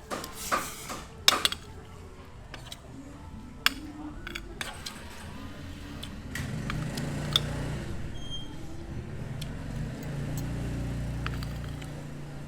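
Clinks and clatter of dishes and utensils, a few sharp strikes in the first few seconds, then a low engine hum that swells from about six seconds in and fades near the end, from a vehicle passing the stall.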